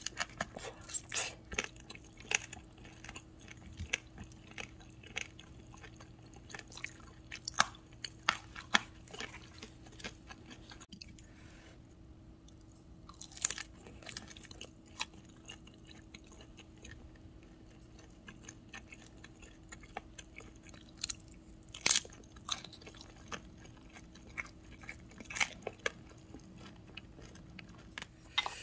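Close-miked chewing of a pan-fried spicy dumpling. Wet, crisp bites come in irregular clusters of sharp clicks, with pauses between them.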